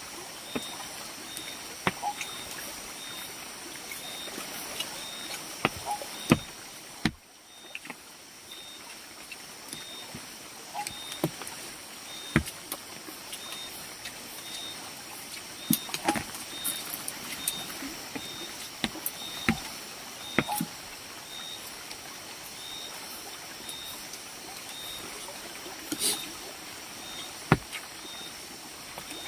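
Scattered light knocks and clicks at irregular intervals, over a faint high chirp repeating about two to three times a second and a steady high hiss.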